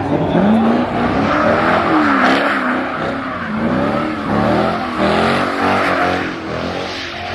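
Ford Mustang engine revving up and down repeatedly during a burnout, with a steady hiss of spinning tyres underneath.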